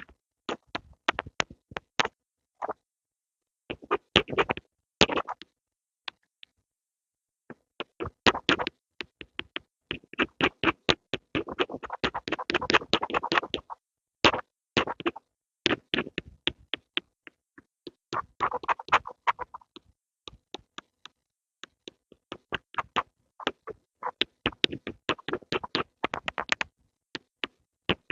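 Pencil ASMR sounds: irregular bursts of quick, sharp taps and short scratchy strokes, with a pause about a quarter of the way through and the densest run around the middle.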